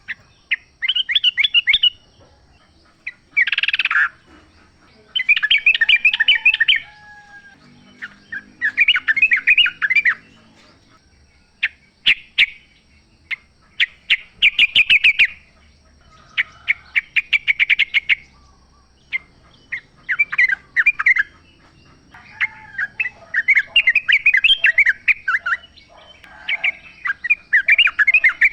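Yellow-vented bulbul (trucukan) singing: bubbly chattering phrases of quick notes, each one to two seconds long, repeated again and again with short pauses between them.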